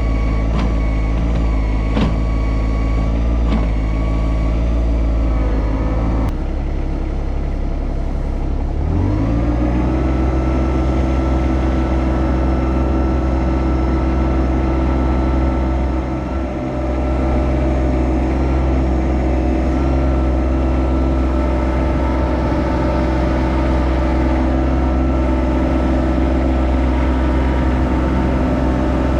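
Yanmar SA324 tractor's three-cylinder diesel engine running, with a few knocks in the first three seconds; about nine seconds in it revs up and then holds steady at the higher speed.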